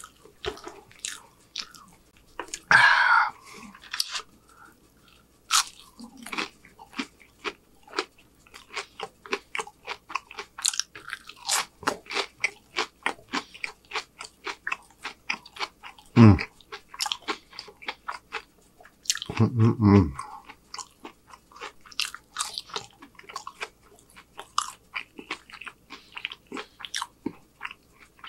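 Close-miked chewing of a mouthful of burger-joint food: wet mouth clicks and smacks, about two or three a second. There is a louder rustle about three seconds in, and two deeper, louder mouth sounds later on.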